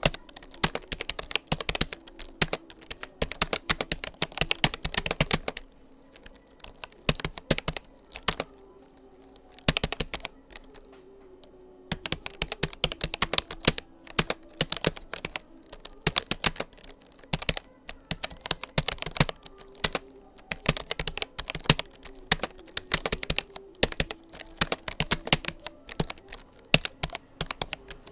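Fast typing on a Rapoo computer keyboard: a dense stream of rapid key clicks, broken by a few short pauses, the longest about two seconds near the middle.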